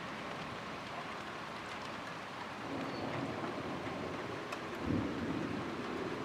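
Steady rain hiss with distant thunder rumbling underneath, the rumble swelling about halfway through and loudest a little before the end.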